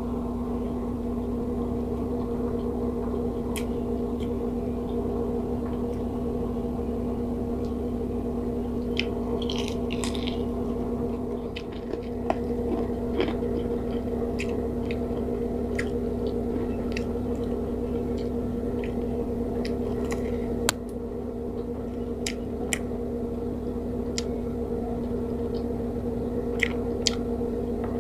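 Close-miked chewing and crunching of crispy fried pork pinakupsan, with scattered sharp crunches as pieces are bitten, over a steady low hum.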